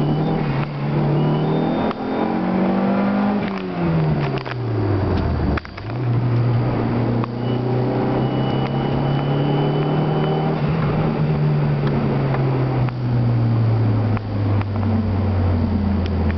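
Dodge SRT-4's turbocharged 2.4-litre four-cylinder engine pulling under acceleration. Its pitch climbs, then falls steeply with a short drop in loudness about five seconds in as the revs come down, then holds and rises again. A faint high whistle is heard for a few seconds in the middle.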